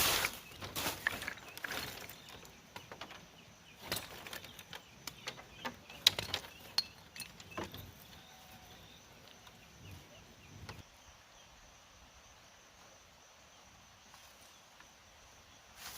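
A few scattered light knocks and taps, closer together in the first half and growing sparse after about eight seconds.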